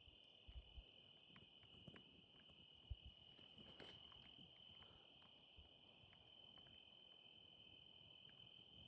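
Faint, steady insect trill, typical of crickets at night, with a few soft clicks scattered through it.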